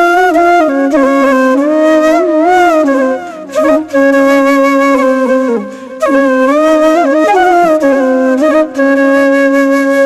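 Background music: a solo flute playing a slow melody with sliding, ornamented notes, in phrases separated by short breaths.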